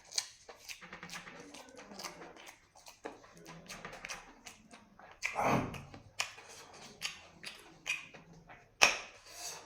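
A person eating close to the microphone: irregular chewing, smacking and crunching of fried dry chillies and rice, with a louder longer crunch about five and a half seconds in and a sharp one near the end.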